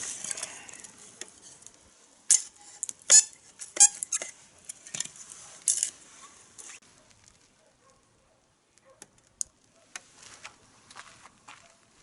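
Wood fire in a fire pit crackling: irregular sharp pops and snaps, several loud ones in the first six seconds, then fewer and fainter.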